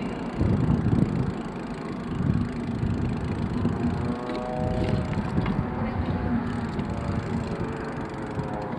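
Wind buffeting the microphone of a camera on a moving bicycle: a gusty rumble. From about halfway through, a faint pitched tone comes in underneath.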